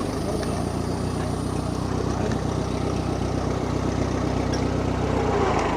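A car engine idling steadily, a low, even hum with no revving.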